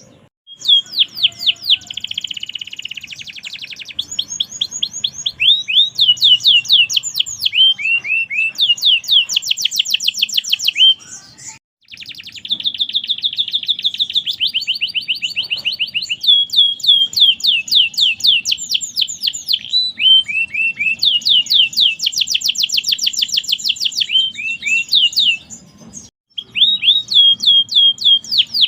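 Domestic canary singing long, fast trilled phrases of rapidly repeated high notes that change speed and pitch from phrase to phrase, with short pauses about 12 and 26 seconds in.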